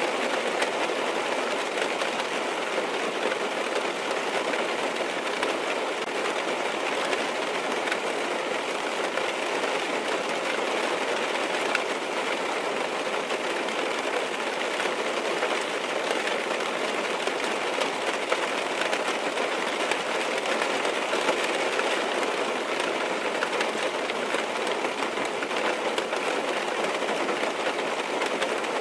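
Steady rain pattering on a car's roof and windows, heard from inside the car: an even, unbroken hiss of many small drop impacts.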